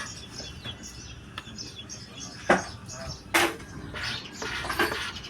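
Small birds chirping over and over, with two sharp knocks a little under a second apart near the middle.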